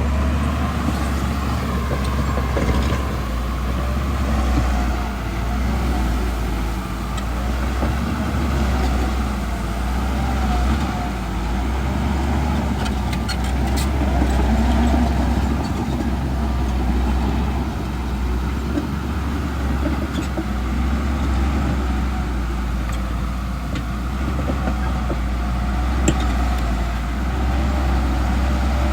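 Heavy diesel engine of earthmoving machinery running steadily with a deep, continuous rumble, its loudness rising and falling slightly as the machine works.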